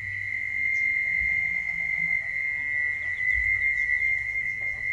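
Steady high-pitched whine holding one pitch, the mysterious 'sky sound' that turns out to come from a Sanyo electric water pump at a well.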